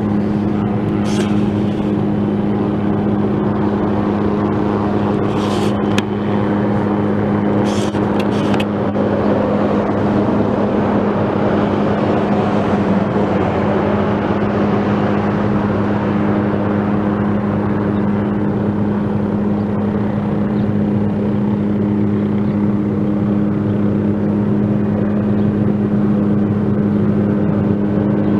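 Helicopter running: a loud, steady drone with a strong constant hum, and a few brief hissing bursts in the first several seconds.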